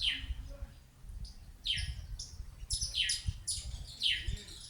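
Small songbird giving a string of sharp, high call notes, each sliding quickly downward, a 'tirit'-like call repeated about six times, over a faint low rumble.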